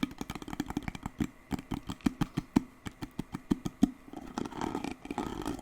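Fast, irregular tapping on an object close to the microphone, several taps a second. About four seconds in it changes to continuous scratching.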